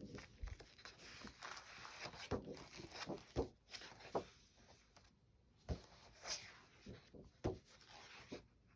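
Paper rustling and soft taps as a paper doll book is handled and its pages are turned, with a few sharper clicks scattered through.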